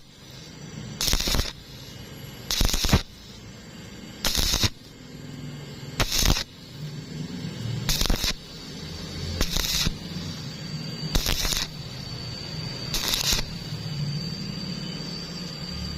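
Welding arc struck in short bursts, about ten crackling bursts each under half a second, roughly every one and a half to two seconds: stitch welding in short pulses on hollow tube. A low steady hum continues between the bursts.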